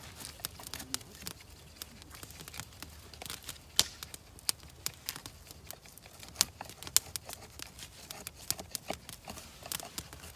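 Wood fire crackling: irregular sharp snaps and pops, several a second, with a few louder pops, one about four seconds in and two more around six to seven seconds.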